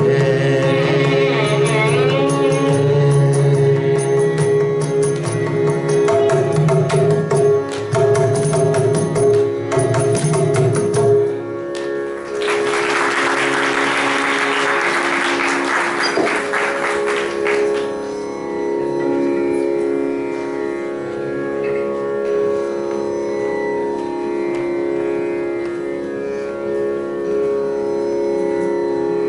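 Carnatic vocal music with violin and mridangam strokes, which ends about eleven seconds in. Applause follows for about six seconds, then a steady drone holds on alone.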